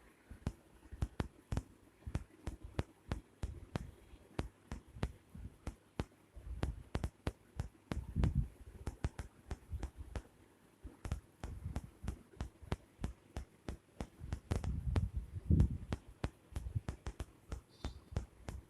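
Irregular soft taps, clicks and scuffling thumps, several a second, with heavier low bumps about eight seconds in and again around fifteen seconds in.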